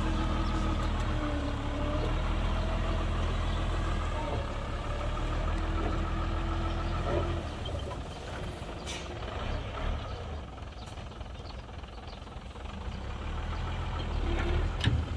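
Heavy diesel engine of construction machinery running steadily, getting quieter about halfway through, with a sharp knock near the end.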